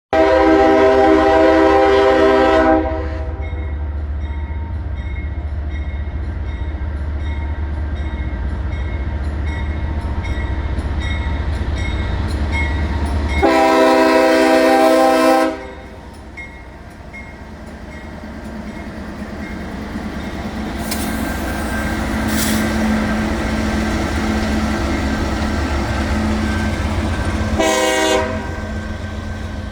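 Diesel freight locomotive horn sounding two long blasts and then a short one, the long-long-short pattern that opens the grade-crossing signal. Between the blasts the locomotives' diesel engines rumble and the train noise grows louder as it approaches.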